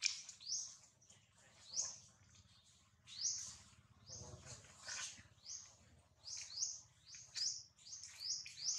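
Birds chirping: a string of short high chirps, about two a second, irregularly spaced.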